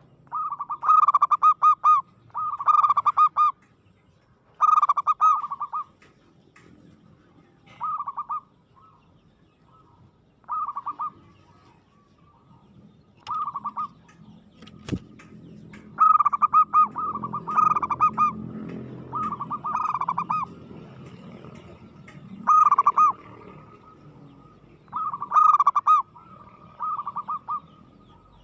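Zebra dove cooing: repeated short phrases of rapid, trilled cooing notes, some loud and some fainter, with pauses between them. A single sharp click comes about halfway through.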